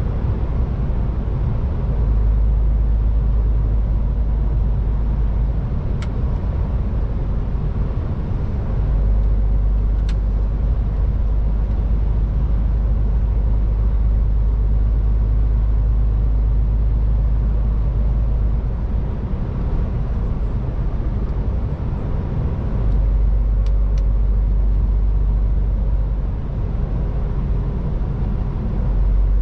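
MAN TGX 18.510 truck's straight-six diesel running under way, with steady engine and road noise. A deep low rumble comes and goes in long stretches, and a few faint ticks sound here and there.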